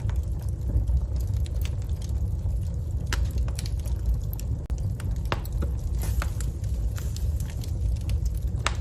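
Wood fire burning in a fireplace: a steady low rumble of flames with scattered sharp crackles and pops from the burning logs, a few louder ones about three, five, six and near nine seconds in.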